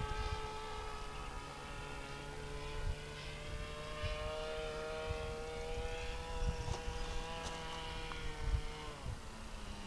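Radio-controlled trainer airplane's motor and propeller droning steadily in flight. The pitch creeps up slightly, then drops near the end. Occasional low thumps sound underneath.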